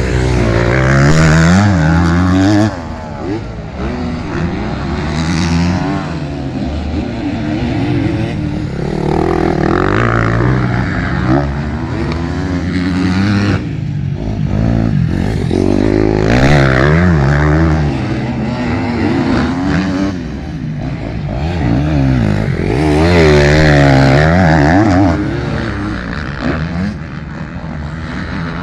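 Several motocross motorcycles revving hard, their engine notes climbing and dropping with each gear change as they pass. The engines swell louder several times.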